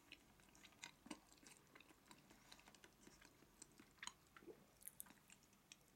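Faint chewing of a mouthful of stir-fried taro and tuna over sixteen-grain rice, lips closed: scattered small soft wet clicks.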